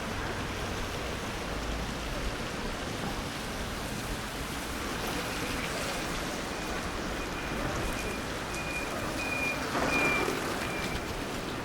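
Wet city street noise: a steady hiss of traffic and water on wet pavement after rain. About halfway in a thin high tone comes in, broken into short pieces, and fades near the end. A louder swell about ten seconds in is the loudest moment.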